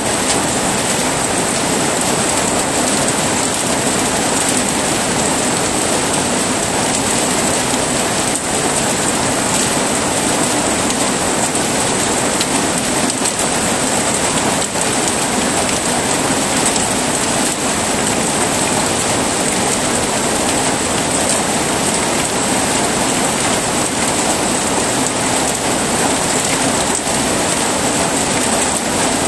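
Heavy rain falling steadily, a dense, even hiss with no breaks or thunderclaps.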